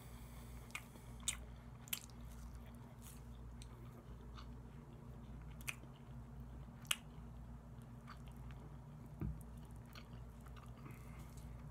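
Close-up mouth sounds of a person chewing soft, jelly-like barbecue chicken, with scattered sharp wet clicks, the loudest about seven seconds in, over a steady low hum.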